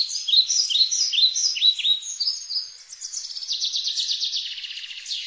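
Bird calling: a run of quick, high, falling chirps, about two or three a second, then a fast rattling trill in the second half.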